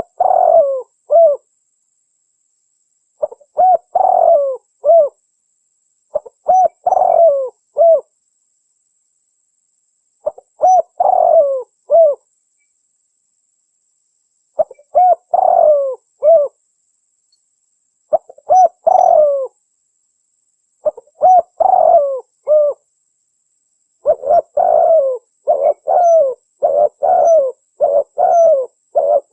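Spotted dove (tekukur) cooing: short phrases of two or three throaty coos repeat every three to four seconds, then from about 24 seconds in the coos come in a quicker, near-continuous run. It is a recorded call played as a lure to draw wild doves in for trapping.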